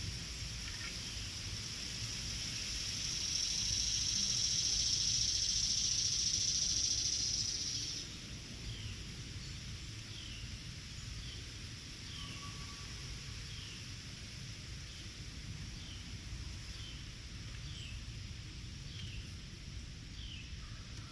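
Outdoor ambience. A high, steady buzz, insect-like, swells and then cuts off suddenly about eight seconds in. After that a small creature gives short falling chirps about once a second, over a low rumble of distant construction noise.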